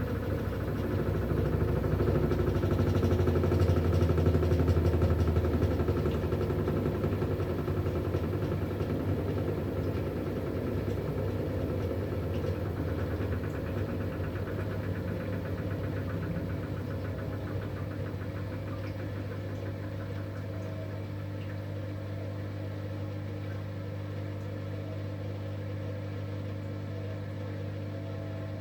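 V-Zug Unimatic SL washing machine running: a steady motor hum with vibration that swells over the first few seconds, then slowly eases off and settles to a steady, lower level.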